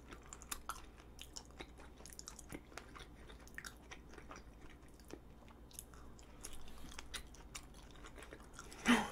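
Close-miked chewing of a strawberry chapssaltteok: soft, sticky glutinous rice cake and red bean with a fresh whole strawberry, making many small wet clicks and crunches. A brief louder sound comes near the end.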